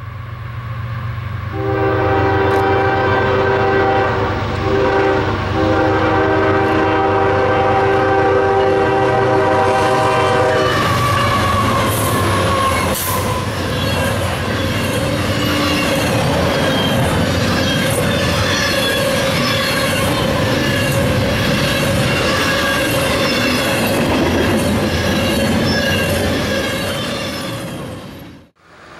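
Diesel-hauled double-stack intermodal freight train approaching and passing. The locomotive horn sounds one long blast of about nine seconds, with a brief break midway, over the engines' low rumble. Then the container well cars roll by with wheels clicking over the rail joints and a steady wheel squeal.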